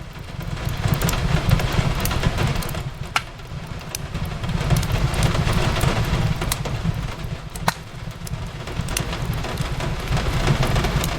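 Fireplace crackling over steady rain on a window pane, with a constant low rumble underneath. Sharp pops of burning wood break through, two loud ones about three seconds in and near eight seconds.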